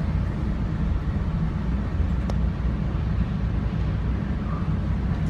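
Mexico City airport's cable-drawn people mover train running along its elevated guideway while arriving at the terminal, heard from inside the car as a steady low rumble. A single light click sounds about two seconds in.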